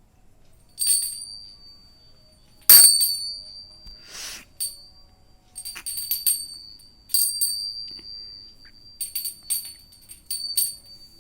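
A small jingle bell shaken in irregular jangles, each leaving a high ringing tone that fades; the loudest shake comes about three seconds in.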